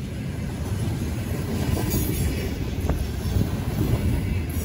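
Train running along the rails, a steady rumble growing gradually louder.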